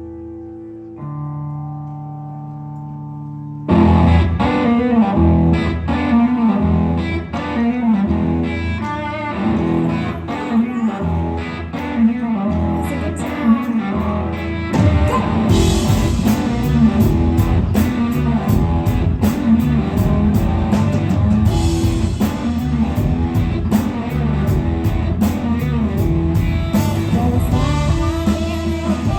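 Live blues-rock band playing an instrumental passage. Two held guitar chords ring out, then about four seconds in the full band with drums comes in under a lead electric guitar, and the cymbals grow brighter about halfway through.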